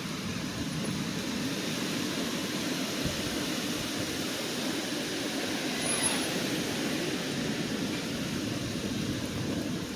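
Thunderstorm ambience: a steady rushing noise with a low rumble beneath it, with no distinct thunderclap.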